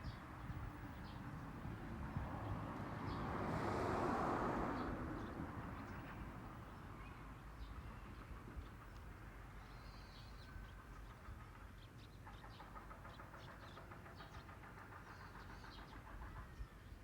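Outdoor ambience of a mountain landscape: a low rumble throughout, with short bird chirps scattered across it. A broad swell of noise builds and fades about four seconds in, like a vehicle passing.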